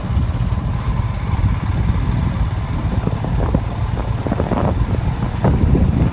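Motorcycle engine running under heavy wind rumble on the microphone, with scattered short knocks in the second half.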